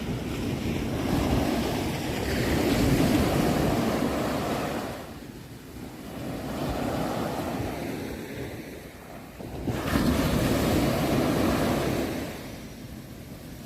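Ocean waves breaking and washing on the shore, with the surf swelling and falling back three times, about every four seconds.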